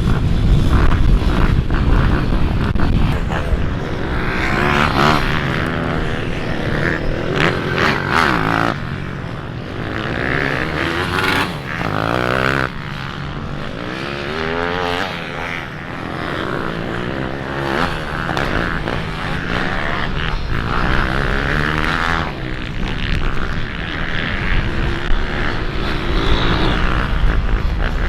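Pit bike engines on a dirt track, revving up and down repeatedly as the bikes ride through the corners.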